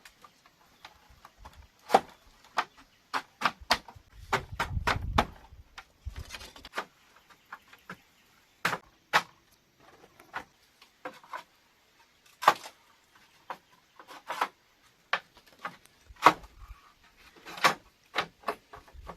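Irregular sharp knocks and taps on wood, unevenly spaced, with a short low rumble about four seconds in.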